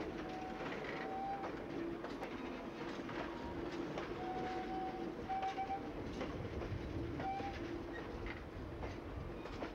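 Circus train passenger cars rolling slowly past: a steady rumble of wheels on the rails with irregular clicks as the wheels cross rail joints, and a few brief steady whining tones now and then.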